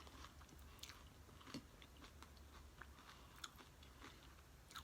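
Faint chewing of nachos: a few soft, scattered mouth clicks and crunches over a low steady hum.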